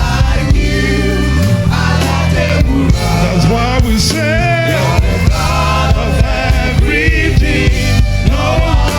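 Gospel praise music with singing over a band, with a steady low bass line and a regular beat.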